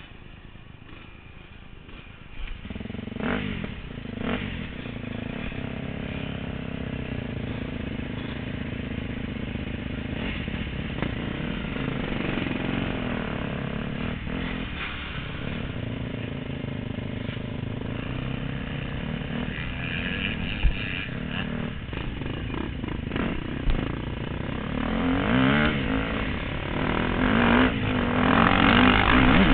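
Motocross bikes running and revving, quiet for the first couple of seconds, then engine noise that rises and falls and gets louder over the last few seconds.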